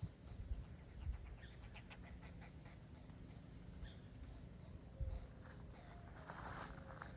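Juvenile pileated woodpecker's raspy buzzing begging call, starting about six seconds in, over a steady high insect drone and a few low thumps.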